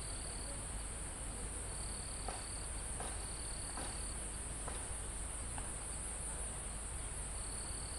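Crickets and other insects calling in a dense chorus: a steady high-pitched shrill, with a second, lower insect trill switching on and off in stretches of about a second. Under it is a low rumble of wind, with a few faint ticks in the middle.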